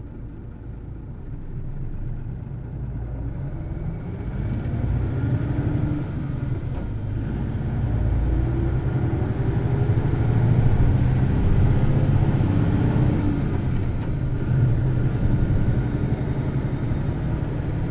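Hino Blue Ribbon City Hybrid bus's diesel engine and hybrid drive accelerating, heard from inside, with the revs climbing high. A high whine rises with it, drops briefly, then climbs again near the end.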